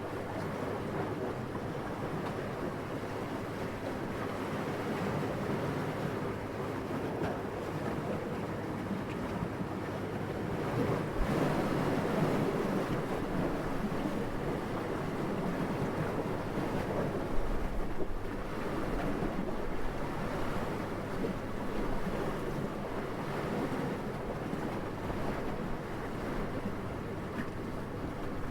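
Steady wind blowing, a soft rushing that swells into stronger gusts a couple of times.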